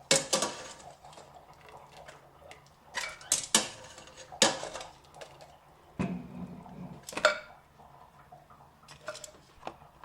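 Kitchen utensils clattering and clinking against a pot and dishes, about eight sharp knocks at uneven intervals, as boiled yabbies are lifted out of the pot.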